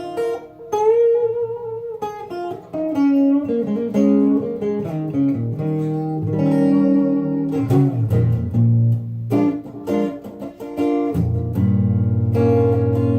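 Wolf KSA-50 electric guitar played clean through a Boss Katana 50 amp, its tone knob rolled all the way down for a mellow "woman tone". It plays a melodic run of single notes and chords, with lower notes held from about 8 seconds in and again near the end.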